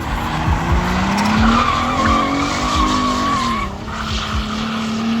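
A drifting car's engine revving hard, its pitch climbing and wavering, with the tyres squealing in a long screech through the middle.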